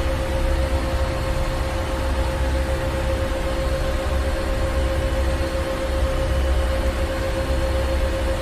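Ship's engine room: heavy machinery running steadily, with a deep rumble, a constant hum tone and a hiss of noise above.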